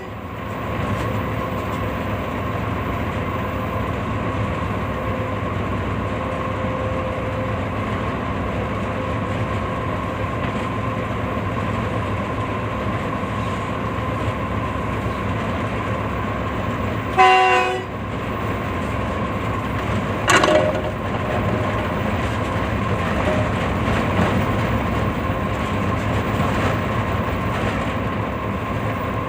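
Train running steadily, with a continuous rumble and a steady ringing tone. The locomotive's multi-tone horn sounds once, briefly, about two-thirds of the way through, and a short high whistle-like sound rises and falls a few seconds later.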